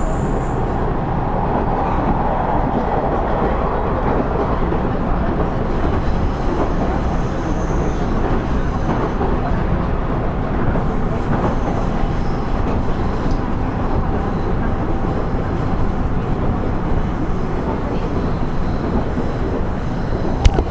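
Running sound of a KiHa 110 series (KiHa 112) diesel railcar, heard from inside the car: a steady rumble of the engine and wheels on the rails. A single sharp click comes near the end.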